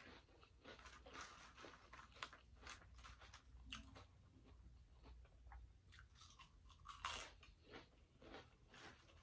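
Potato chips being bitten and chewed close to a microphone: a quiet run of small sharp crunches, with one louder crunch about seven seconds in.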